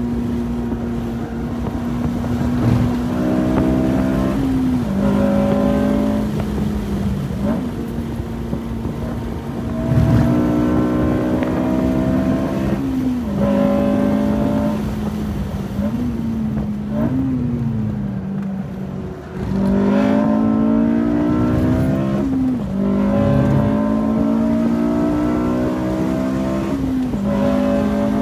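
Interior sound of an 8th-generation Honda Civic Si's 2.0-litre four-cylinder with a K&N short ram intake, driven hard on track. The engine note climbs in pitch under throttle and drops sharply at each gear change, several times over, with a few quick blips between.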